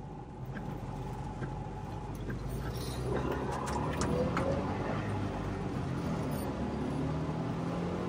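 Trabant 601's two-cylinder two-stroke engine heard from inside the car as it drives. About three seconds in the engine note rises in pitch and grows louder as the car picks up speed.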